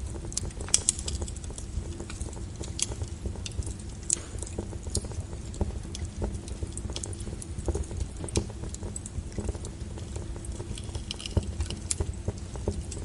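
Wood fire crackling: irregular sharp pops and snaps over a steady low rumble, with the loudest pop about a second in.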